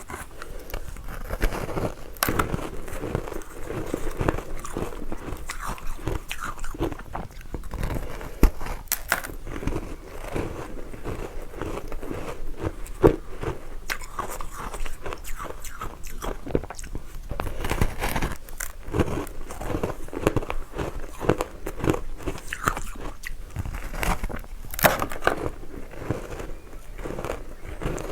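Close-miked biting and chewing of matcha-powdered ice, a dense run of soft, irregular crunches.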